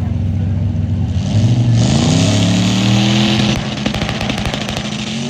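Sprint truck's engine accelerating hard: the engine note climbs about a second in and holds high under a loud hissing rush for about two seconds, then eases off near the end.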